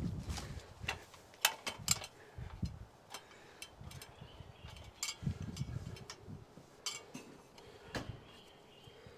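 Scattered sharp clicks and clinks with a few dull thumps, about a dozen in all. No air-conditioner compressor or fan is running.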